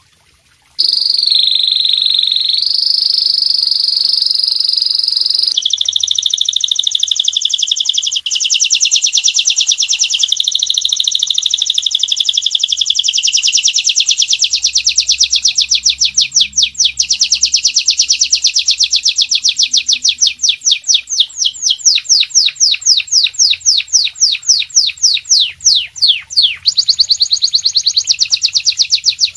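A songbird singing loud, high-pitched song that starts about a second in: first held, wavering notes, then long rapid trills of repeated notes, switching to a new note type every few seconds.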